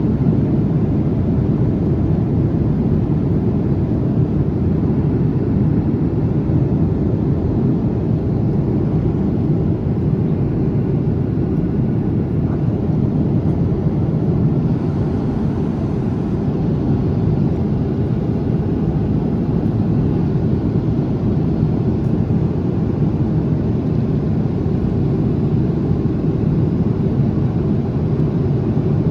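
Loud, steady low rumbling noise with no distinct events, a continuous roar weighted toward the bass.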